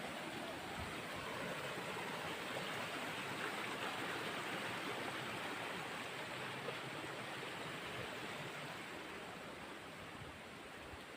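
Steady rush of running water, swelling slightly about four seconds in and easing a little toward the end.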